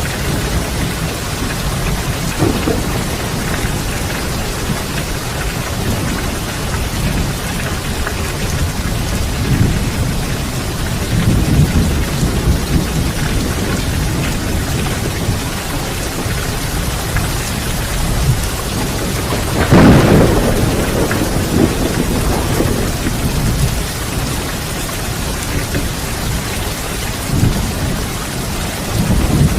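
Steady rain with low thunder rumbling several times, and one loud thunderclap about two-thirds of the way through.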